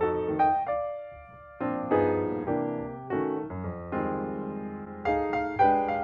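Background piano music: notes and chords struck and left to fade, with a quieter held note about a second in before the next chord.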